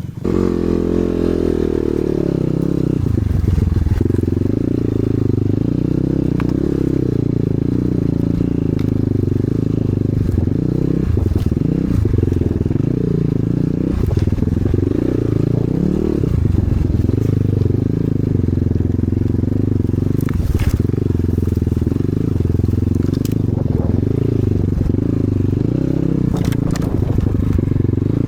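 Enduro motorcycle engine running along a trail, its revs rising and falling with the throttle, with a few sharp clicks and knocks.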